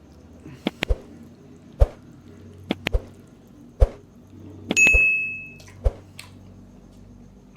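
Sharp taps of eating utensils against dishes, about eight in all, with one ringing clink about five seconds in that hangs for nearly a second.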